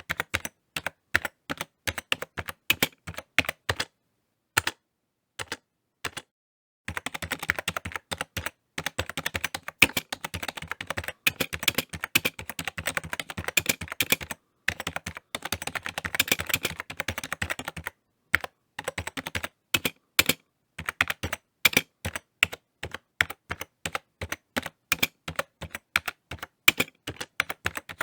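Typing on a computer keyboard: quick runs of key clicks, broken by a few short pauses of a second or two.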